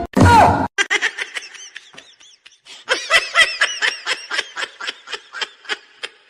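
Someone laughing in rapid, evenly repeated short bursts, about four or five a second, after a brief loud sound that falls in pitch at the start.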